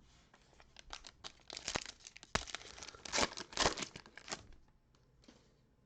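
A trading card pack being torn open, its wrapper tearing and crinkling in irregular bursts for about four seconds.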